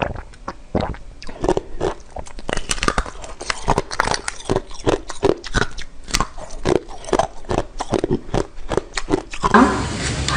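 Close-miked eating: repeated crunchy bites and chewing, with dense irregular crackles several times a second. Near the end a steady rushing noise comes in.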